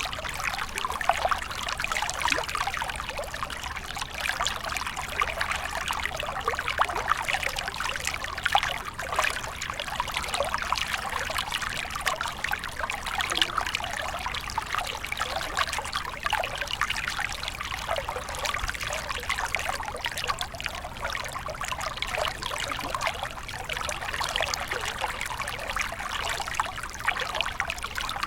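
Water flowing and trickling in a small stream, a continuous babbling with many small splashes and gurgles.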